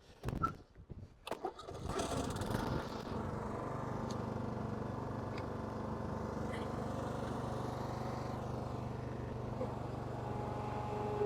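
Lawn mower engine being pull-started with a few rough tugs, catching about two seconds in and then running at a steady speed.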